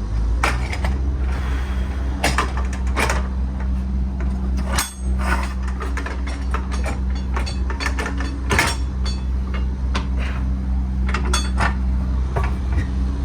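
Irregular metallic knocks and clatter, a dozen or so scattered sharp hits, over a steady low machine hum.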